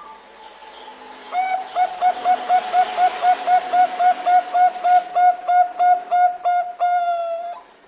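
Zebra dove (perkutut) calling: a rapid run of short cooing notes, about four a second, ending in one longer held note, over a faint steady hiss.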